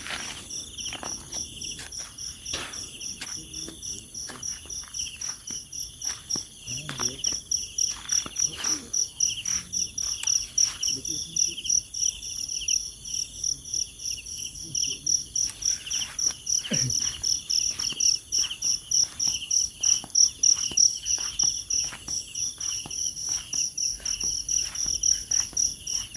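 Crickets and other night insects calling: a steady, rapidly pulsing high trill, with a sharp repeated tick-like chirp about two to three times a second that becomes more regular after about eight seconds.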